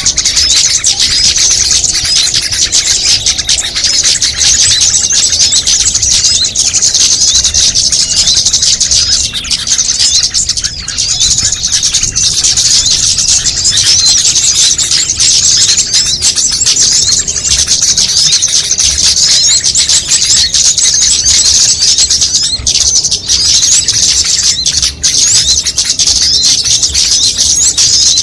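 Dense, unbroken chorus of many small songbirds' high chirps and trills layered together: a combined bird-luring call recording (suara pikat) meant to draw small birds in.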